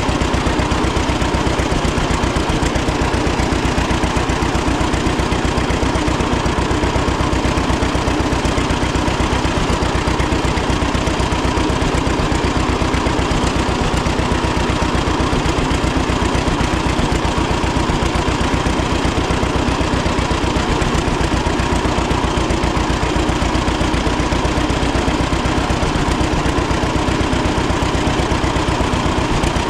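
1936 John Deere Model A two-cylinder tractor engine running steadily with an even, rapid pulsing exhaust beat.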